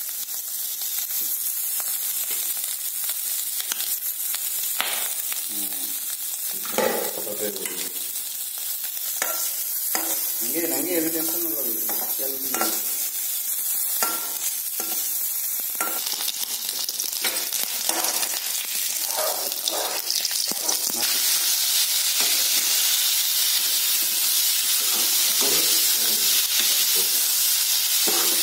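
Pork pieces frying in oil in a wok, sizzling steadily, with a metal ladle scraping and stirring against the pan now and then. The sizzle grows louder about two-thirds of the way in.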